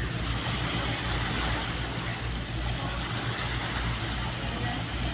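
Ship engines running with a steady low drone under a constant wash of harbour noise.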